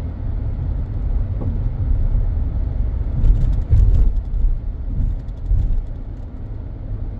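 A car driving, a steady low rumble of engine and road noise that swells briefly about three seconds in.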